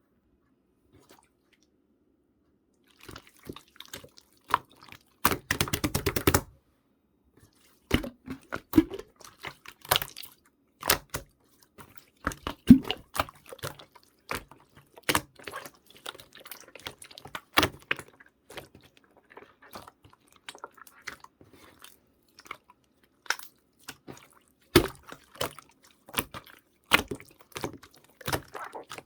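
Slime being squeezed and pressed by hand, giving scattered wet clicks and pops, with a quick rattle of pops about five seconds in.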